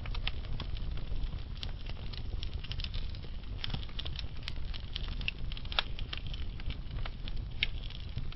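Slow-burning log fire crackling: a steady low rumble of flames with frequent irregular snaps and pops from the burning wood, a few sharper pops standing out.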